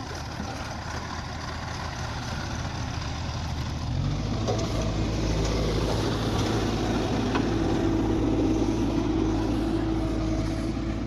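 Heavy diesel engine of earth-loading machinery running, rising in pitch and level about four seconds in and then holding steady at the higher speed.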